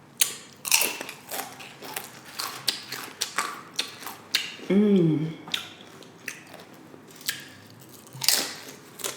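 Close-up crunching of loaded tortilla-chip nachos being bitten and chewed, a run of sharp, irregular crackles. A short "mm" hum about halfway through.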